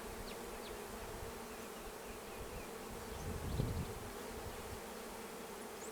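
Honeybees humming steadily around an opened hive, the colony buzzing as its frames are handled. A brief low rumble rises a little past halfway.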